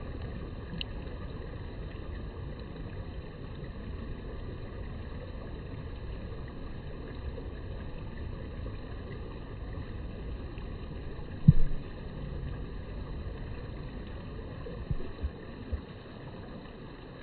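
Steady low outdoor rumble picked up by a phone microphone, with a few dull thumps: one loud one about two-thirds of the way in and three smaller ones near the end.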